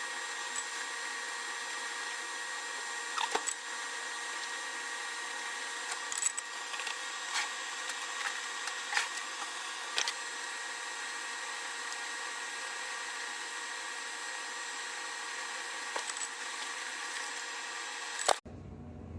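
A small power tool running steadily, with scattered clicks and taps over it; the sound cuts off abruptly near the end.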